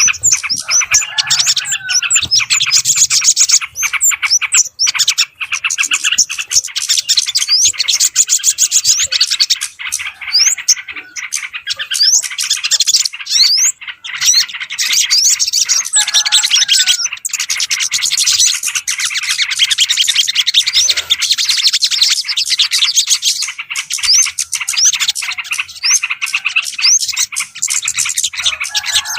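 Mixed chorus of small birds chirping and twittering rapidly and without pause, a lure recording for yellow-vented bulbuls and other small birds. A lower, falling call stands out about a second in, again about halfway, and at the end.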